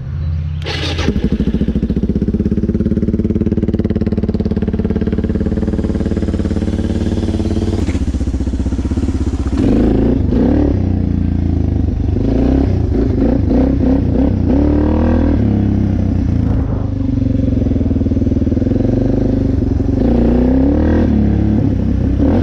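Suzuki DR-Z400's single-cylinder four-stroke engine catching about a second in after being hot-wired, then running. From about ten seconds in its pitch rises and falls.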